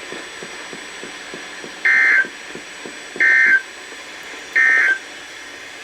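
Three short, identical warbling data bursts, about a second apart, from a NOAA Weather Radio broadcast: the SAME end-of-message code that marks the end of an alert message. A faint hiss of the radio lies under them.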